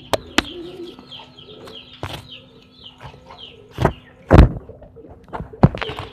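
Domestic pigeons cooing during a male's courtship drive, with a run of short high chirps. Several sharp thumps are mixed in, the loudest about four and a half seconds in.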